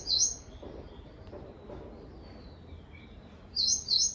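A small bird calling in short bursts of quick, high chirps, once at the very start and again near the end, over faint outdoor background noise.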